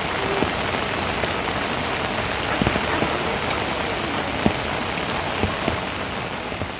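Rain falling steadily, an even hiss with a few louder single drops striking close by.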